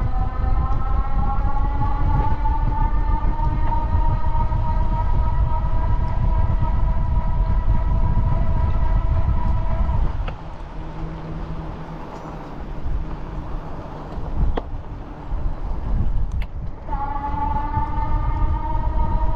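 A steady whine with overtones, slowly rising in pitch, from the moving bike, over heavy wind rumble on the microphone. Both cut out about ten seconds in, leaving a few clicks, and the whine and rumble return near the end.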